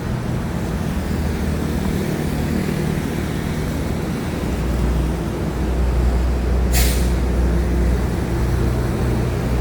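Excavator's diesel engine running steadily with a low hum that grows louder about halfway through, and a short hiss about seven seconds in.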